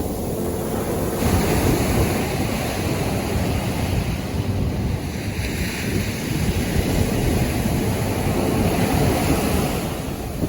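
Pacific surf breaking and washing up a sandy beach, swelling in a long wash about halfway through, with wind buffeting the microphone.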